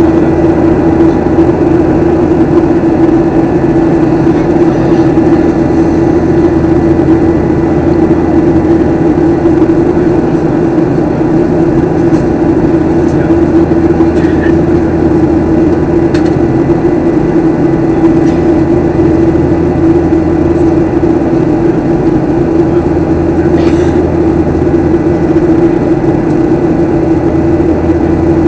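Steady drone of a jet airliner cabin in flight: engine and airflow noise with a constant low hum, unchanging throughout.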